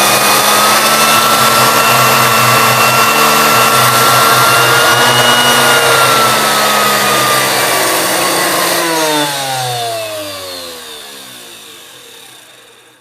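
Vintage Walita blender's motor running at speed with a steady whine, then switched off about nine seconds in and spinning down, its pitch falling as it slows.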